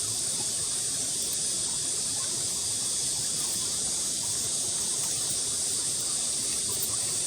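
Steady high-pitched hiss of an insect chorus, even and unbroken throughout.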